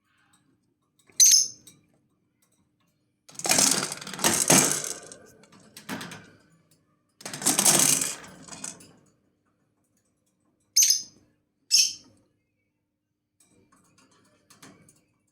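Lovebird giving short, sharp high-pitched chirps: one about a second in and two in quick succession later. Between them come two longer bouts of scratchy, clattering noise.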